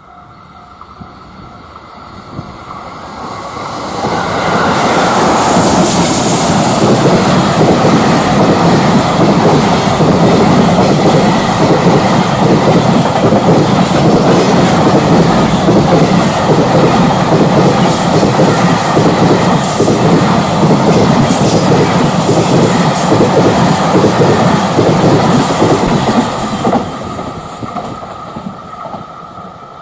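A container freight train passing close by: the sound swells over the first few seconds, the wagons roll past with a steady rhythmic clickety-clack of wheels over rail joints for about twenty seconds, and it dies away near the end.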